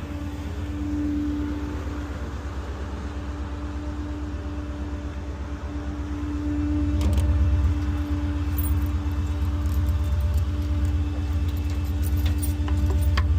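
Ford F-550 garbage truck's engine running with a steady low rumble and a steady whine over it, getting louder about halfway through. Light clicks and rattles, like jangling keys, come through in the second half.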